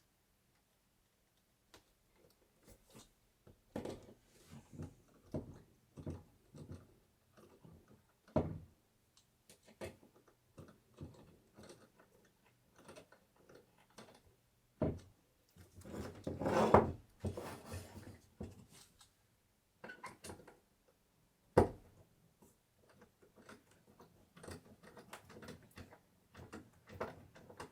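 Wooden bed parts being handled and knocked together during assembly: scattered irregular clunks and taps, a sharp single knock now and then, and a denser clatter lasting about two seconds a little past the middle.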